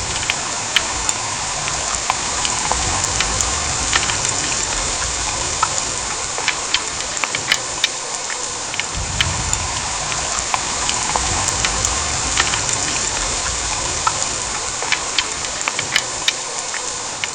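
Heavy downpour: a steady hiss of rain with many sharp drop impacts pattering through it, and a low rumble that swells about nine seconds in.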